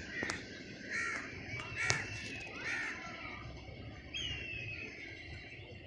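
Birds calling: four short, harsh, caw-like calls about a second apart, then a fainter call about four seconds in.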